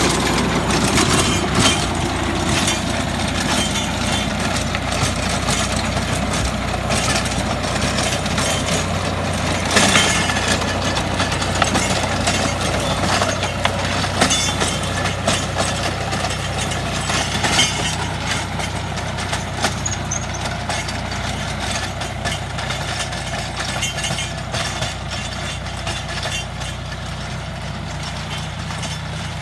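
Tractor's diesel engine running steadily, driving a rotary tiller, with many irregular knocks and clatters from the tiller blades working through the ground.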